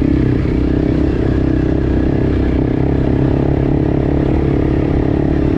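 Enduro motorcycle engine running at a steady speed while being ridden.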